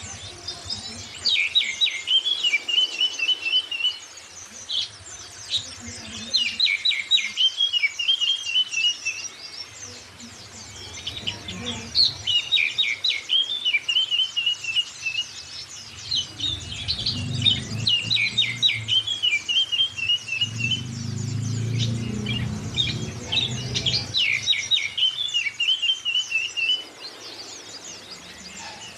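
A songbird sings the same phrase over and over, about every five to six seconds: a quick burst of sharp, high notes running into a trill. A low rumble sits under the song for several seconds in the second half.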